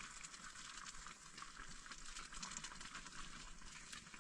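Faint sizzling and bubbling of noodles cooking in a pot: a steady crackly hiss.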